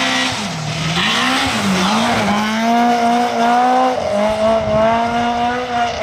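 Rally car engine at high revs as the car passes and pulls away on snow. The revs dip twice near the start, then hold high with one short drop about four seconds in.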